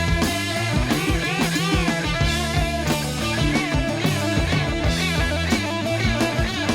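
Heavy rock instrumental: a distorted electric guitar lead with bending notes over bass and a drum kit.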